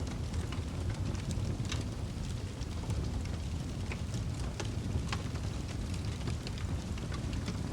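Wood fire in a fireplace crackling: irregular sharp pops and snaps, a few a second, over a steady low rumble of the burning fire.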